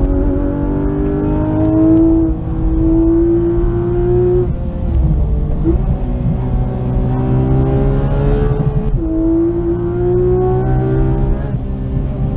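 Porsche 911 GT3 RS's naturally aspirated flat-six heard from inside the cabin under hard acceleration, its pitch climbing steadily through the revs. About four and a half seconds in the revs fall away, with a short blip of revs near six seconds. It pulls again, and near nine seconds the pitch drops sharply and climbs once more, as on an upshift.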